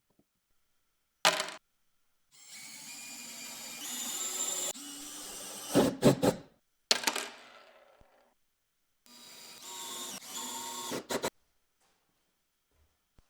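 Power drill running in two short runs, each a few seconds long, with sharp knocks and clicks around and between them, typical of driving screws into wood.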